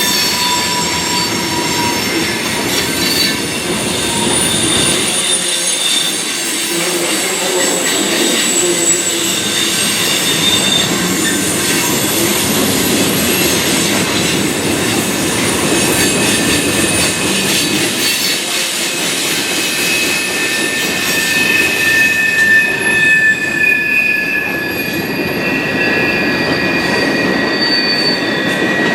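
Freight train cars rolling past with their wheels squealing on the rails: several high, thin squeal tones that drift slowly in pitch, over a steady rumble.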